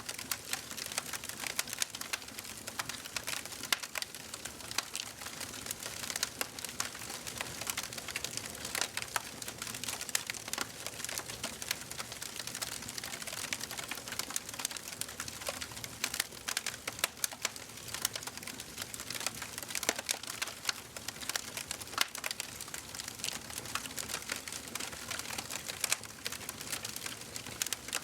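Wood fire burning in a fireplace: dense, irregular crackling and popping over a soft steady hiss of flame.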